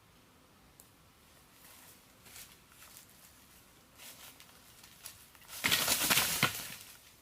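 Faint scattered rustles, then a loud burst of crackling rustling about five and a half seconds in, lasting about a second.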